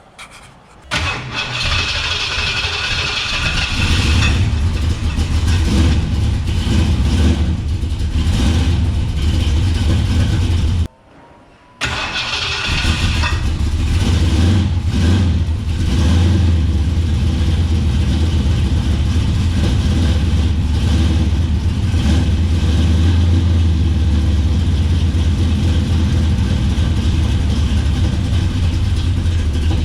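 Ford 460 cubic-inch big-block V8, with a twin tunnel-ram intake and twin Holley carburettors, cold-starting: it cranks and fires about a second in, then runs. There is a short break about eleven seconds in, after which it is heard starting again and running at a steady idle.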